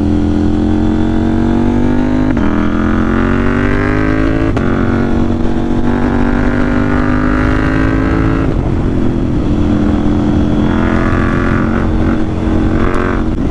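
KTM 790 Duke's parallel-twin engine pulling hard, its note climbing and then dropping at two quickshifter upshifts, about two and four and a half seconds in, before holding a steady cruise.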